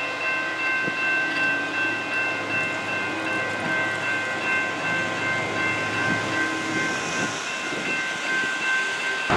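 MBTA commuter rail train passing over a grade crossing: a steady rolling rumble from the train with several steady high ringing tones above it, some breaking on and off.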